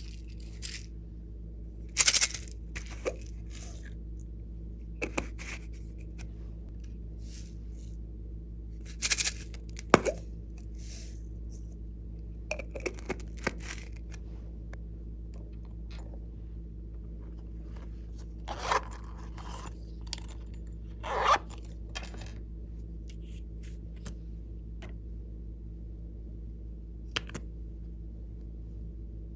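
Slime being handled and mixed by hand: scattered short crackles, scrapes and clicks, a few much louder than the rest, over a steady low hum.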